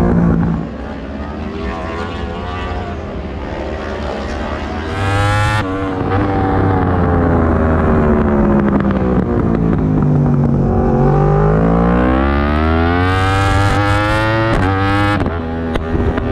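Yamaha R1 race motorcycle's inline-four engine at racing speed: the revs climb, a gear change cuts in about five seconds in, and the revs fall away slowly for several seconds. It then climbs hard again under throttle, with quick upshifts near the end.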